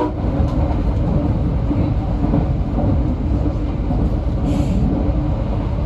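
Moving commuter train heard from inside the carriage: a steady low rumble of wheels and running gear, with a faint steady hum and a brief hiss about four and a half seconds in.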